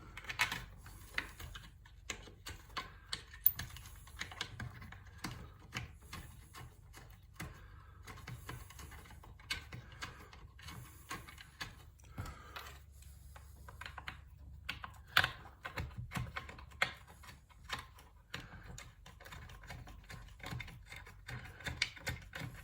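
Irregular light clicks and taps of hand tools and small metal parts while small bolts are fastened on a Corvette headlight assembly.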